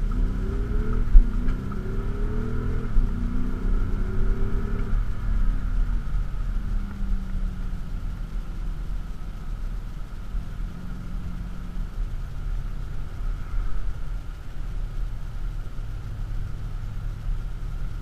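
Audi SQ7's 4.0-litre V8 TDI diesel heard from inside the cabin, accelerating through the gears with its note rising in steps for the first five seconds, then settling into a steady cruise with tyre and road noise. A single thump about a second in.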